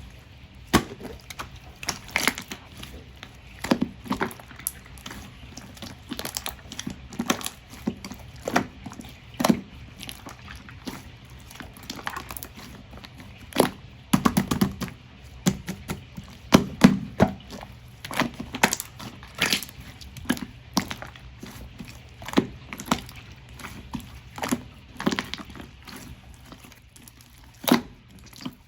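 Clear slime being pressed and stretched by hand, making irregular sticky clicks and pops with a few short squelching runs.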